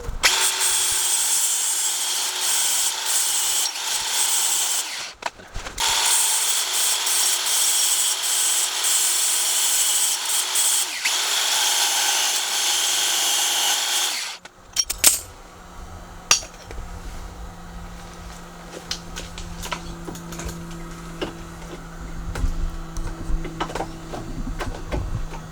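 Angle grinder running against steel in two long runs, with a short break about five seconds in, and stopping about fourteen seconds in. After it stops, a quieter steady low hum with a few scattered clicks.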